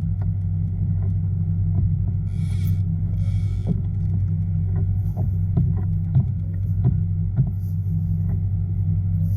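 A steady low hum with a few even tones, like a small motor, runs under scattered faint clicks. Two short hissing bursts come about two and a half and three and a half seconds in.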